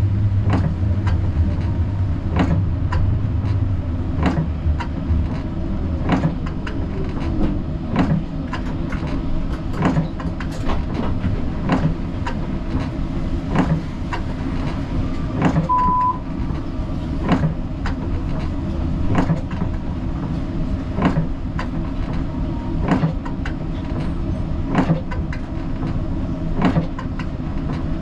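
Siemens Combino tram running along its track, heard from inside the driver's cab: a steady low rumble and hum with sharp clicks about once a second. One short, high beep sounds about halfway through.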